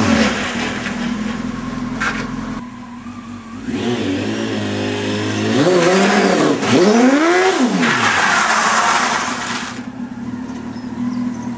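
Fiat 126p fitted with a Honda sport-bike engine, revved hard as it drives. The pitch drops at the start, then climbs and falls sharply twice in the middle before settling to a steadier running note near the end.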